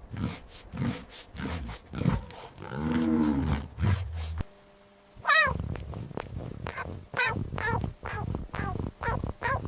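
Lion roaring, ending in a series of short, low grunts about twice a second. After a brief pause, a different animal gives a high, wavering call followed by a run of shorter, sharp calls.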